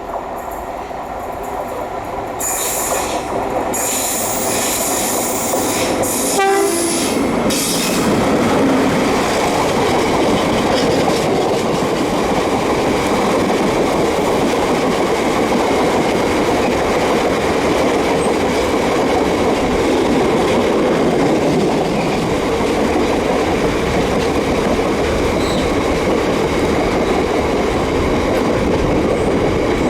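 A train approaching and running through the station, growing louder over the first several seconds, then a long, steady rumble of wheels on rail that goes on to the end.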